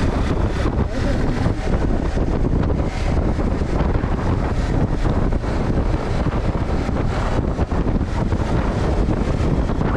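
Loud, steady wind buffeting on a GoPro's microphone while moving, a low rumbling roar that drowns out other sound.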